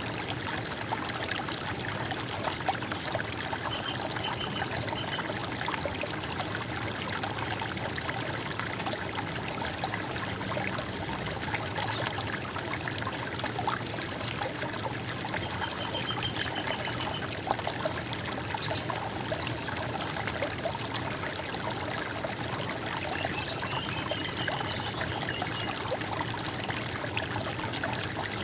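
Running water trickling and splashing steadily, with a small bird giving short runs of high repeated notes three times.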